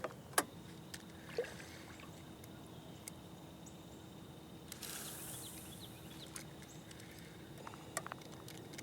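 Water splashing around a small boat, with a few sharp knocks and a short splash about five seconds in, over a faint steady hum.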